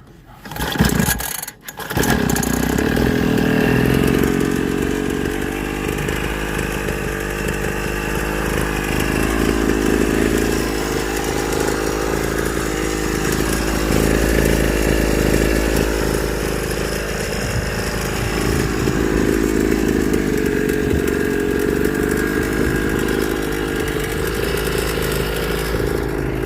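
Small two-stroke pit bike engine starting: it fires about a second in, cuts out for a moment, then catches. It keeps running steadily, its speed rising and falling a little.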